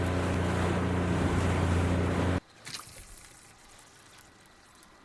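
Boat engine running steadily under wind and water noise, then cutting off abruptly about halfway through. What remains is faint water noise and a couple of small knocks.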